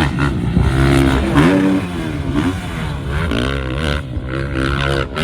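Dirt bike engine revving hard, its pitch climbing and dropping back again and again.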